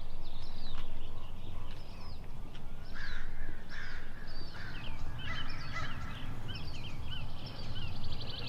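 Wild birds calling: many short, quick chirps, with a few harsher, lower calls from about three to five and a half seconds in and a rapid trill near the end.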